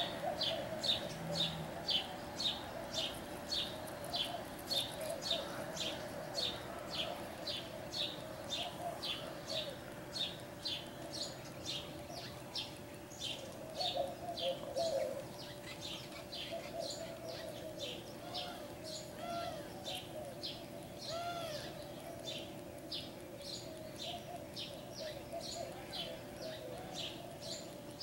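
A small bird chirping over and over, a short high chirp about twice a second, with softer, lower bird calls underneath.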